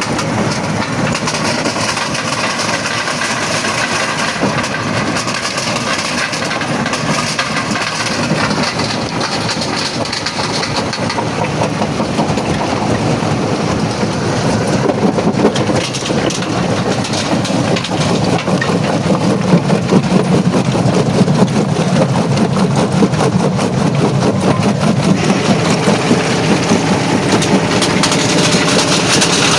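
Quarry jaw crusher running and breaking rock: a continuous heavy grinding rumble with dense rattling and cracking of stone, getting louder about halfway through.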